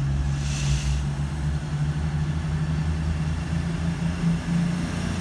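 Class 222 Meridian diesel multiple unit pulling away, its underfloor diesel engines running with a steady low drone. There is a brief hiss of air about half a second in.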